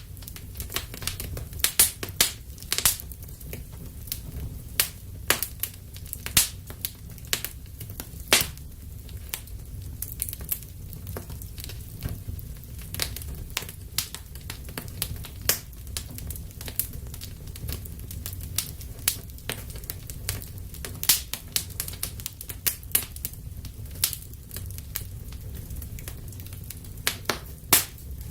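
Wood fire burning in a fireplace: irregular sharp crackles and pops, several a second and some much louder than others, over a steady low rumble of the flames.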